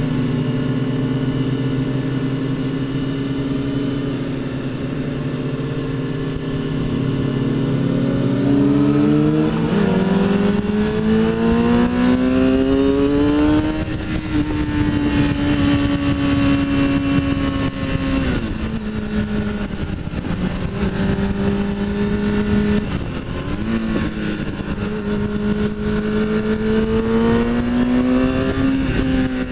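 Sport motorcycle's inline-four engine with wind rush from the rider's seat. It holds a steady note for the first several seconds, then revs climb through the gears under acceleration, ease off around the middle, and climb again near the end.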